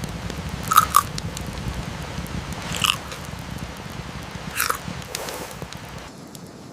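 Three crisp crunches, the first a quick double, the others about two seconds apart, over a steady hiss of rain and fire; the low part of the background cuts out near the end.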